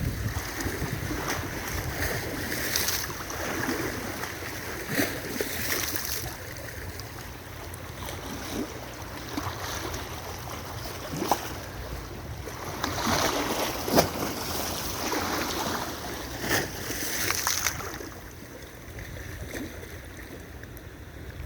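Wind buffeting the microphone, a low steady rumble, with scattered knocks and rustles about a dozen times.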